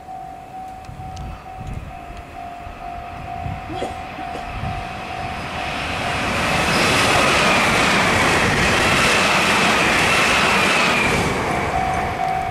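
An electric train passing beside a level crossing. For the first few seconds the crossing's warning bell rings in a steady repeating beat. From about six seconds in, the rush of the train's wheels and running gear builds and becomes the loudest sound, with a faint high tone over it. The bell comes back through the noise near the end.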